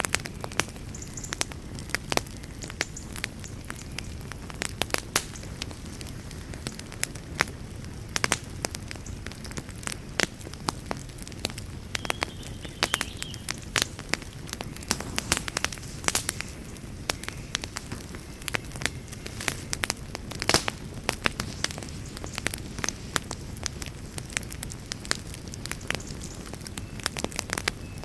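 Wood campfire burning and crackling, with frequent irregular sharp pops and snaps over a steady low rush.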